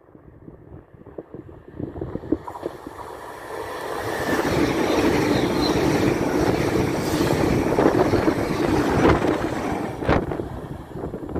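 Italo high-speed electric train running through the station at speed without stopping. The rush builds over the first few seconds, stays loud as the carriages sweep past, then eases as the train pulls away. Near the end, gusts buffet the microphone in the train's wake.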